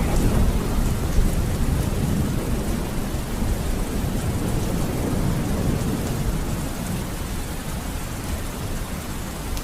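Steady rain falling, with a long, low rumble of thunder that is loudest at the start and slowly dies away.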